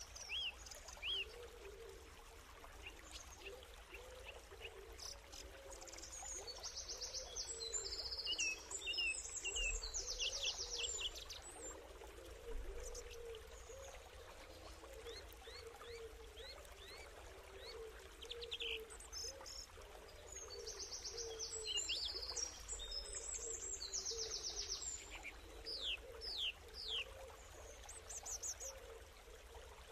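Birds chirping and singing in quick high trills, busiest about a quarter and again about three quarters of the way through, over a steady low murmur.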